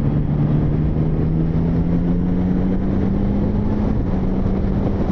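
Motorcycle engine running under way, with wind and road noise; the engine note rises slowly and steadily.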